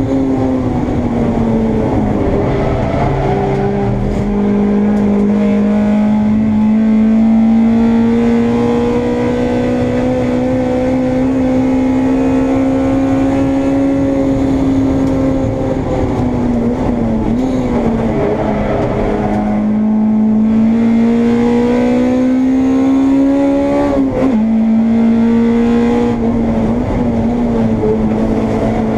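Honda Integra race car's engine heard from on board, pulling hard with its pitch climbing slowly, easing and dipping in the middle, then climbing again. About four-fifths of the way through, the pitch drops sharply, as at a gear change, and it then holds steady.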